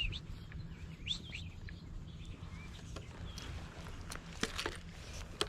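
Faint bird chirps, a few short calls in the first second or so, over a low steady rumble.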